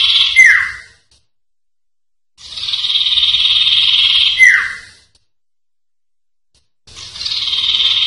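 Common iora (cipoh) song: a long, high, buzzing trill that ends in a short falling note, repeated after a silent pause of about two seconds. A phrase ends about half a second in, a full phrase follows, and another begins near the end.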